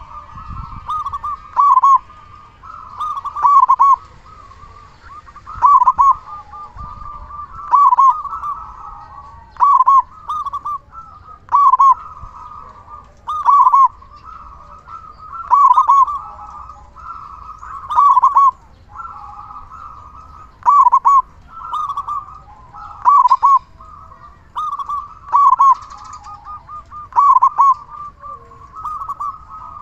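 Zebra dove (perkutut) cooing: loud, clipped coo phrases repeating about every two seconds, with softer cooing running between them.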